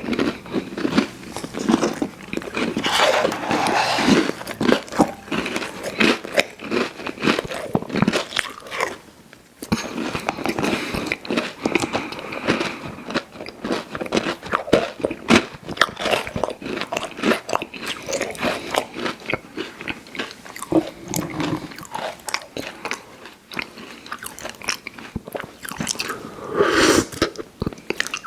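Close-up eating sounds of sweets being bitten and chewed: a dense run of crunches and clicks with a short pause about nine seconds in.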